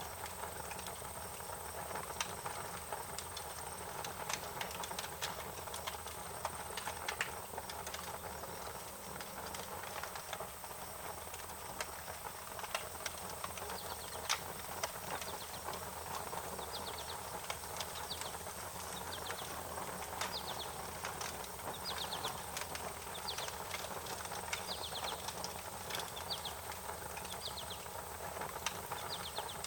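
Wood fire crackling, with irregular sharp pops over a steady hiss. From about halfway, short high chirps repeat roughly once a second over a thin, steady high whine.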